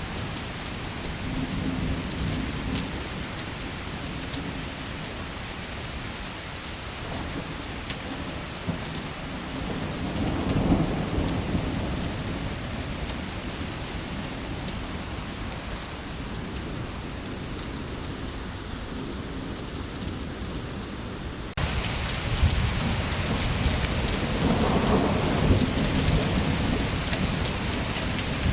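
Steady heavy rain with low rolls of thunder, one about ten seconds in and another near the end. The rain abruptly gets louder a little past two-thirds of the way through.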